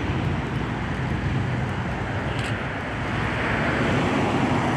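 Car engine running with a low, rough rumble, getting a little louder about three seconds in.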